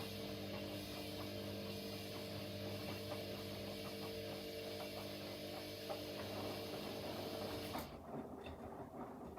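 Washing machines running mid-cycle: a steady drum-motor hum and whine that cuts off suddenly about eight seconds in, leaving softer irregular patter and clicks of the drum and the wash load.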